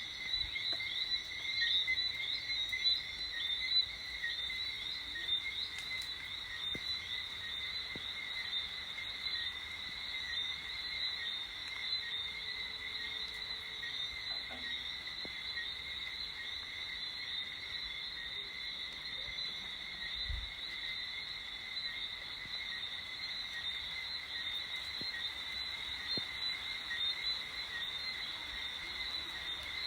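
A dense chorus of small frogs calling, a steady mass of high chirps and whistles, somewhat louder in the first few seconds. A brief low thump about twenty seconds in.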